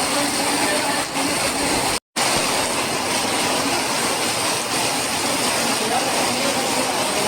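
Heavy rain falling in a steady, even rush, cutting out to silence for a moment about two seconds in.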